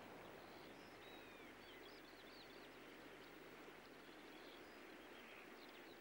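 Near silence: a quiet steady hiss with faint, high, short bird chirps, a cluster of them about one to three seconds in and a few more near the end.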